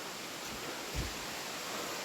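Steady rush of waterfall water, an even hiss, with one soft low thump about a second in.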